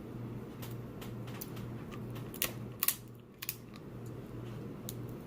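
Crab leg shells being cracked and broken open: a string of sharp cracks and clicks, the loudest cluster about halfway through, over a steady low hum.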